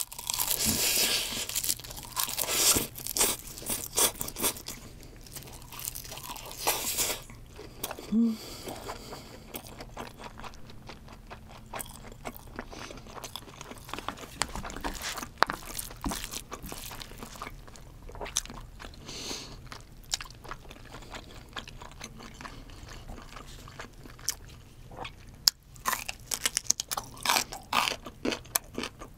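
Close-miked chewing of a big mouthful of king crab bibimbap wrapped in roasted seaweed (gim). There is crisp crunching and crackling for the first several seconds, then softer wet chewing, and more crunching near the end.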